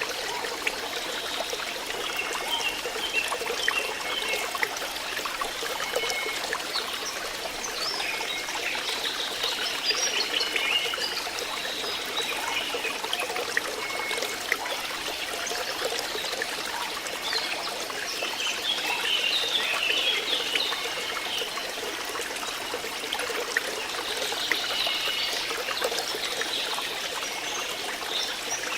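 Flowing water trickling and burbling steadily, with brighter high-pitched patches coming and going every several seconds.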